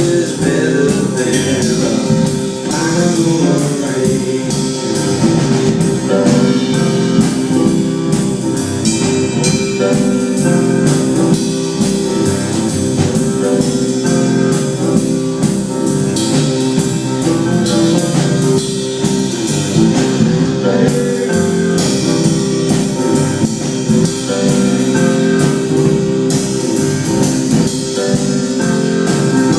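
Live band playing a blues-tinged song, with piano, guitar and drum kit.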